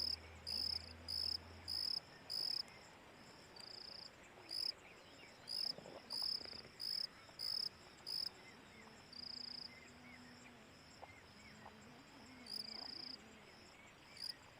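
A cricket chirping: a run of short, high-pitched chirps repeating about one to two times a second, a few of them drawn out longer.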